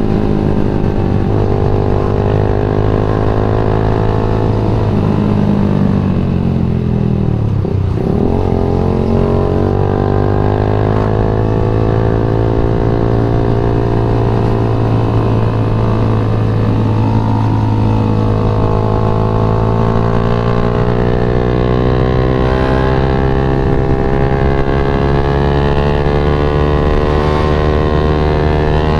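Yamaha MX King 150's single-cylinder four-stroke engine under way on the road. The engine note drops sharply about seven seconds in as the bike slows, then climbs steadily through the rest as it accelerates again, with brief dips at the gear changes.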